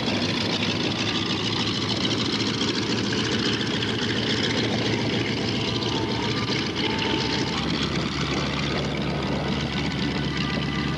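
Steady aircraft engine drone.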